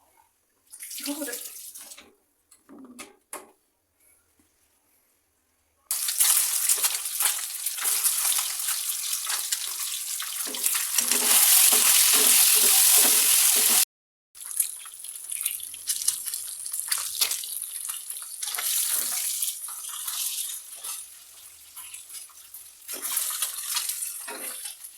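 Water running from a tap into a sink in uneven stretches. It starts and cuts off suddenly, and there are a few short handling sounds at the start.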